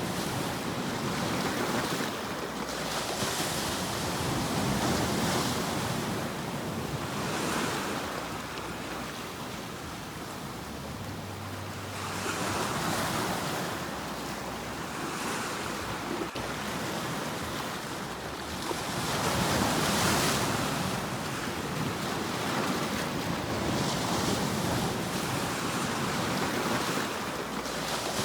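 Sea waves breaking in continuous surf, each wave swelling into a loud hiss and washing back every few seconds.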